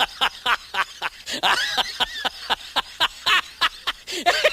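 A rapid run of short, squeaky vocal sounds, about six a second, rising and falling in pitch, like chattering laughter or an animal call.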